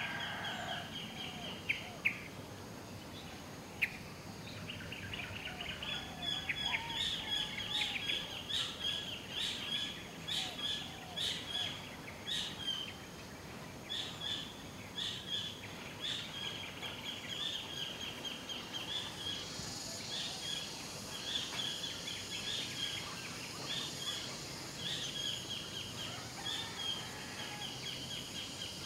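Outdoor birdsong: a bird repeating a short, high chirp over and over, many times a second in quick runs, with a few sharp clicks early on. Near the start the end of a rooster's crow is heard, and about two-thirds through a steady high hiss of insects joins in.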